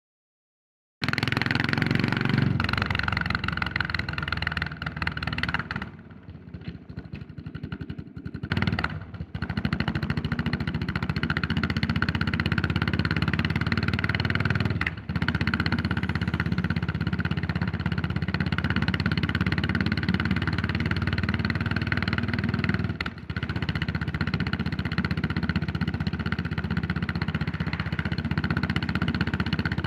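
Yamaha SR400's air-cooled single-cylinder four-stroke engine running under way. The sound starts abruptly about a second in, drops to a quieter stretch around six to nine seconds in, and briefly dips twice later on.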